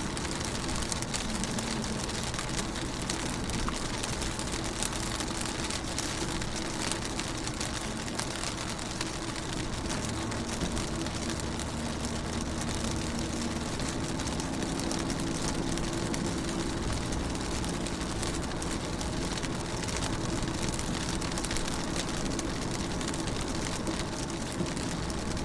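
Rain falling steadily on a car's window, heard from inside the car, with a steady low hum underneath.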